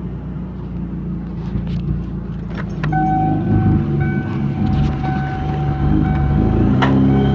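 Supercharged 1991 Ford Taurus SHO engine, said to be a 3.6 stroker with a Vortech kit, idling with a lumpy note that suggests aggressive cams. From about three seconds in, a thin whining tone comes and goes over it, with a couple of short clicks.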